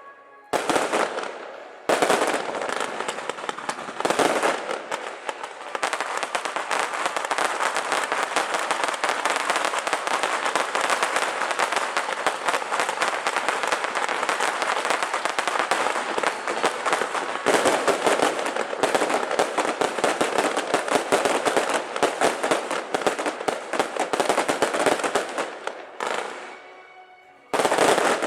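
Strings of firecrackers going off in a long, dense, rapid crackle, set off as a salute to a temple procession. A short burst comes about half a second in, the main string runs unbroken for over twenty seconds, and another short burst comes near the end.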